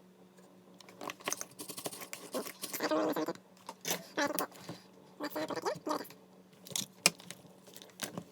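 Irregular clicks, taps and scraping as small hard parts are handled, over a steady low hum.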